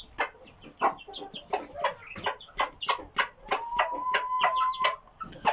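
Asil cross chicks (Parrot Beak × Brazilian) cheeping in quick runs of short high peeps, among many sharp taps and clicks. A steady thin tone is held for about a second and a half after the middle.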